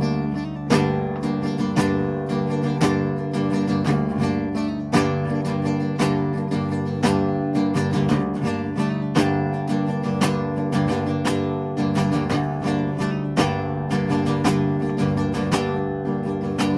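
Acoustic guitar strummed in steady chords, an instrumental break between sung verses.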